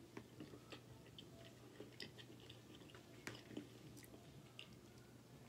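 Faint chewing of a mouthful of cheesy penne pasta, with soft, scattered wet clicks from the mouth.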